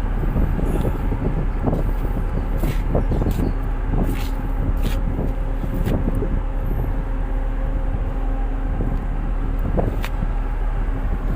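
Tug boat's diesel engine running steadily, a constant low hum with a couple of steady tones, with scattered short knocks and clicks over it.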